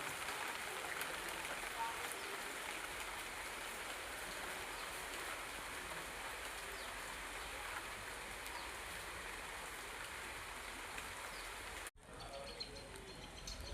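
Steady rain falling, an even hiss of drops on surfaces. About twelve seconds in it cuts off abruptly, and a quieter stretch follows with a few short high chirps.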